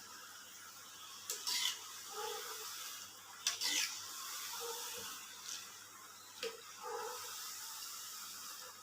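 Faint kitchen utensil sounds: a few light clinks and scrapes, spread a second or two apart, over a faint hiss.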